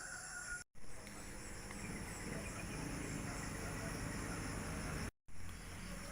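Insects trilling steadily in the background, a high continuous drone under a soft, even noise. The sound drops out completely twice, just under a second in and about five seconds in.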